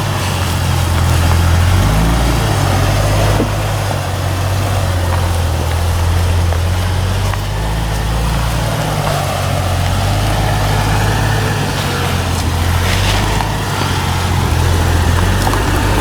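Suzuki SJ 4x4's small four-cylinder engine running at low revs as it crawls off-road in low range, its steady hum rising and falling slightly in pitch.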